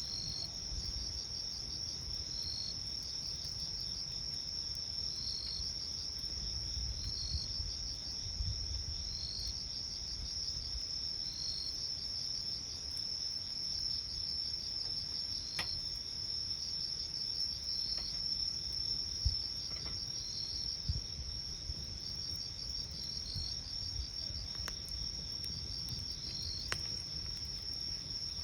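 Night insects, crickets, trilling steadily with a second insect chirping about every two seconds, over the low rustle of a campfire with a few sharp crackling pops.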